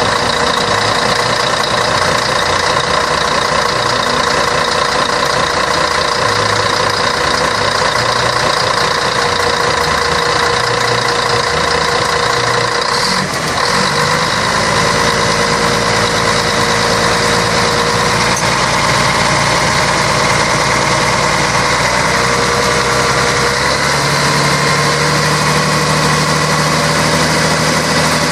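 Scania K113 bus's 11-litre straight-six diesel engine running steadily, with a brief dip about halfway through and a change in its lowest tones near the end.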